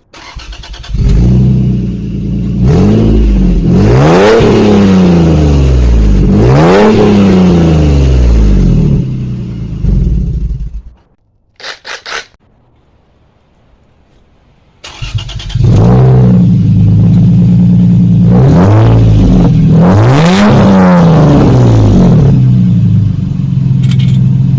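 Lexus IS engine running through its exhaust: it idles and is blipped twice, goes quiet for a few seconds after a short clatter, then idles again with two more quick revs.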